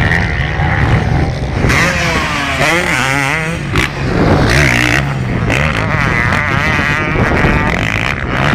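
Several motocross bike engines racing together, revving up and down as they go through gear changes and throttle on the track.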